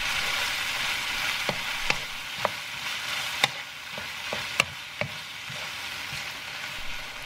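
Ground beef and sliced mushrooms stir-frying in a pan with a steady sizzle. A wooden spatula scrapes through them and knocks sharply against the pan a handful of times.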